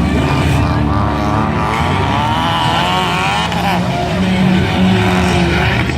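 Several motor vehicle engines running loud and revving, their pitch wavering up and down.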